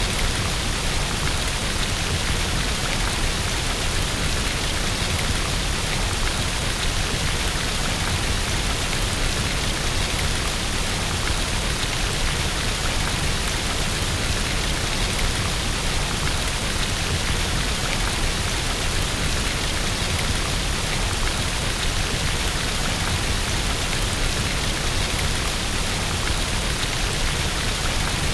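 Steady rain falling on a window, a continuous even hiss with no breaks or swells.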